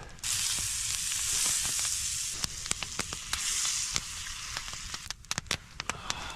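Food sizzling in a hot small skillet over a campfire: the sizzle starts suddenly, loud for the first couple of seconds, then slowly dies down, with sharp crackles and pops throughout.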